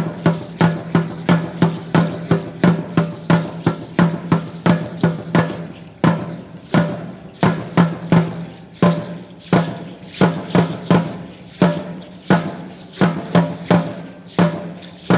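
Huehuetl drum beating a steady Aztec-Chichimeca dance rhythm, about three strokes a second, each stroke ringing low, with a brief break about six seconds in before the beat picks up again.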